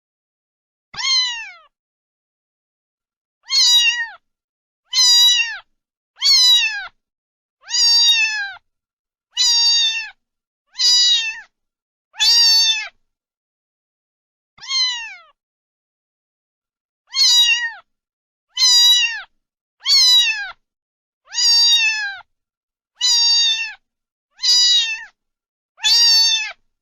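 A domestic cat meowing over and over, about sixteen short meows that each fall in pitch, spaced a second or so apart with one longer pause midway.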